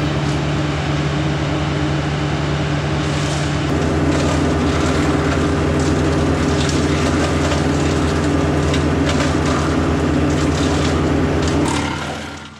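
Tractor engine running a PTO-driven wood chipper at steady speed. From about three seconds in, wood is being chipped, with dense cracking and crunching over the drone. The sound fades away near the end.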